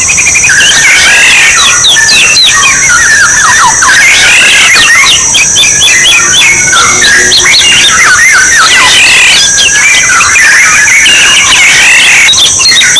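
Oriole calls, many rapid sweeping whistles and harsh notes overlapping without a break, as in a bird-luring call recording. A steady high hiss sits beneath them.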